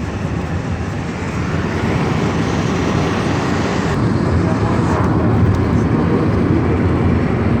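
Steady road noise of a Lada Kalina 2 station wagon driving on the highway: engine, tyre and wind noise heard from inside the car, growing slightly louder about two seconds in.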